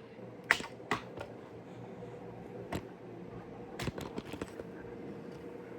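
A scattered series of light clicks and taps from hands handling hard objects, with a cluster of quick clicks about four seconds in, over a steady electrical hum.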